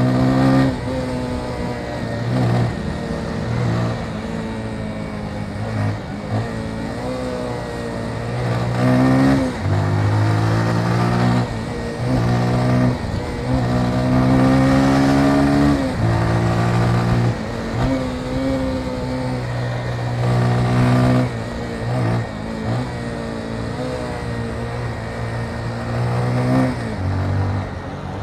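Motorcycle engine running under way, revving up and dropping back every few seconds as the rider works the throttle and shifts gears, with wind and road noise underneath.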